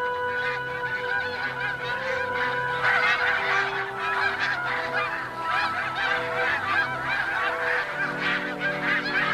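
A flock of geese honking, many overlapping calls at once, over soft background music with long held notes.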